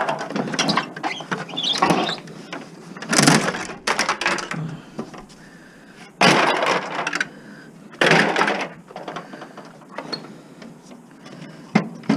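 Hard plastic cracking and snapping in a series of loud bursts, about six over the first nine seconds, as plastic housing parts are wrenched and broken off an appliance being stripped for scrap.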